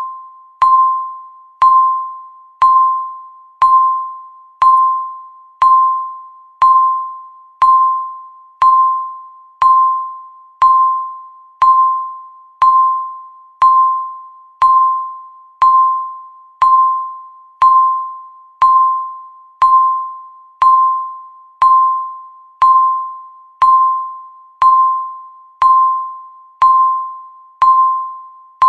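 Countdown timer's electronic beep marking each second: one short, single-pitched tone a second with a sharp start that fades away quickly, repeating evenly.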